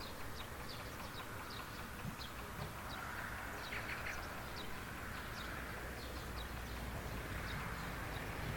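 A small bird calling over and over with short, high, falling notes, about three a second, with a brief louder cluster of notes about four seconds in.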